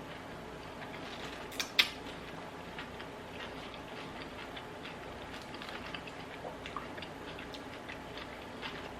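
Close-miked chewing of a salad with chicken: many faint wet mouth clicks, with two sharper clicks about one and a half seconds in.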